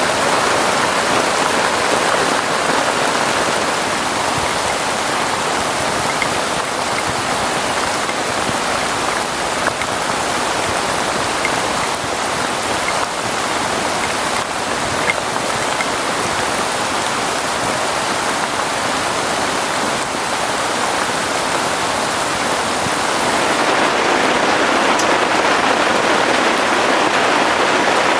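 Heavy rain falling steadily in a dense, even hiss. About 23 seconds in it grows slightly louder and duller.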